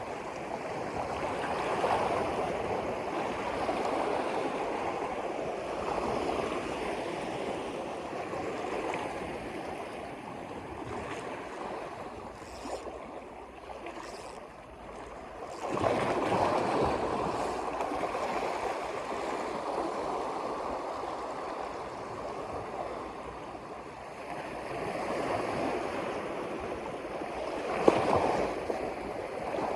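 Water rushing steadily, swelling and easing every few seconds, with one sharp click near the end.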